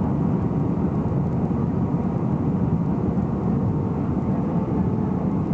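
Airbus A320 cabin noise: a steady, even rumble of the engines and airflow.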